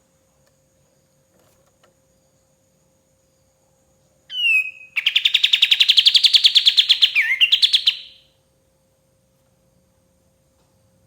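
Kapas tembak bird singing one phrase: a short falling note, then a rapid rattling trill of fast-repeated notes for about three seconds, with a quick falling slur near its end, starting about four seconds in.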